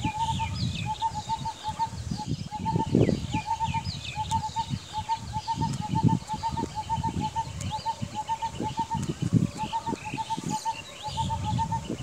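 Birds calling: a steady run of short, same-pitched notes in quick groups of three or four, over scattered higher chirps, with bursts of low rumble every few seconds.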